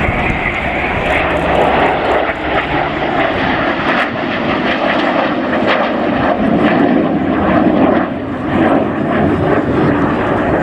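Spitfire flying past in display, its piston engine running loud and steady with a rushing airflow noise.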